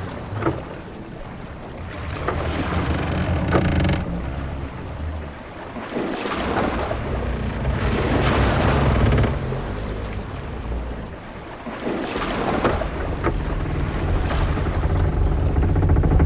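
Sea ambience aboard a sailing ship: waves wash against the hull in swells every few seconds, under steady wind and a low rumble, with a few short knocks or creaks now and then.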